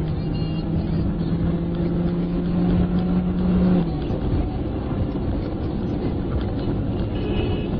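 Car engine and road noise heard from inside the vehicle, with an engine note that rises slowly for about four seconds as it accelerates, then drops away, leaving steady road rumble.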